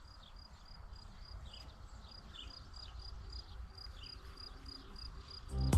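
A cricket chirping in a steady high rhythm, about three chirps a second, with scattered short falling bird calls and a low wind rumble. Loud electronic music cuts in near the end.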